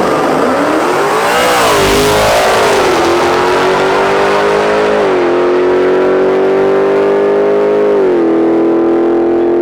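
Supercharged 6.2-litre Hemi V8 of a 2018 Hellcat at full throttle on a drag-strip pass. The revs swing up and down at first, then climb steadily, broken by two upshifts about three seconds apart.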